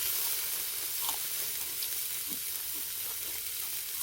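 Pork neck sizzling steadily on a grill over a charcoal brazier, with a few faint crackles.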